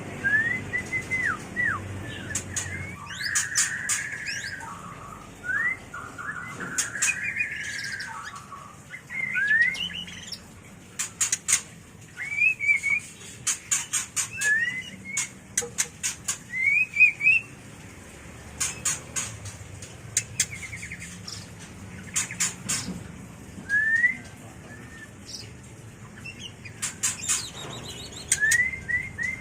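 White-rumped shama (murai batu) in breeding condition calling: short rising whistled notes and a couple of harsher, rougher phrases, interspersed with runs of sharp clicks.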